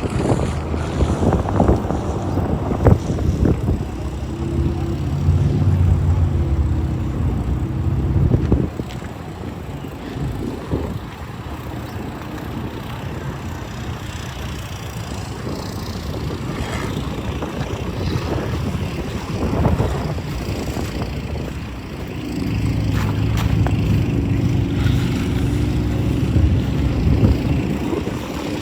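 Snowstorm street ambience: wind buffeting the microphone, with a motor vehicle's engine humming nearby for a few seconds about four seconds in, and again from about twenty-two seconds on.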